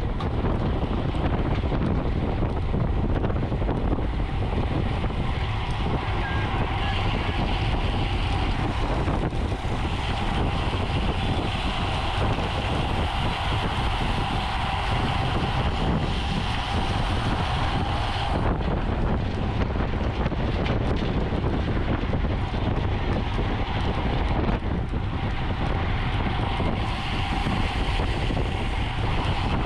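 Wind rushing over the microphone of a camera on a racing bicycle moving at speed, a steady rumbling rush with road noise beneath it. A faint steady hum rides on top for a stretch in the middle.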